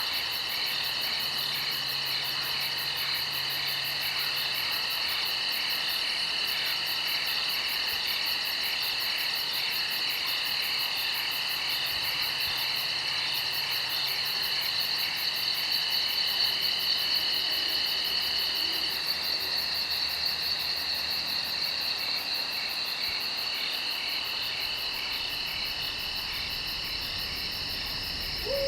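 A steady chorus of insects, crickets among them: several high trills and fast pulsing calls layered together without a break. One of the trills fades out about two-thirds of the way through.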